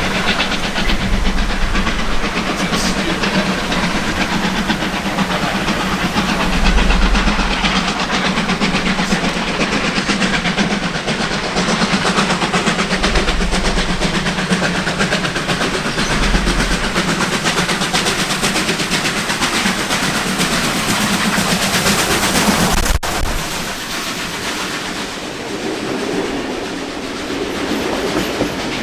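A heritage passenger train hauled by locomotives R766 and 4537 runs by close, with a steady low engine hum under loud wheel rumble and clickety-clack over the rail joints. The sound drops abruptly about three-quarters of the way through.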